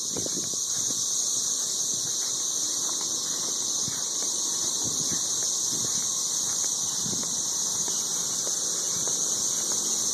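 Dense chorus of 13-year periodical cicadas calling from the treetops: a steady, ridiculously loud high-pitched shrill drone with no breaks, the males calling to attract mates.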